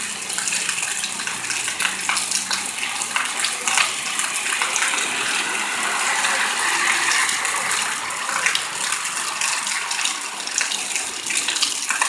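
Heavy rain pouring down: a steady, fairly loud hiss of falling water dotted with many small splashes and drop ticks.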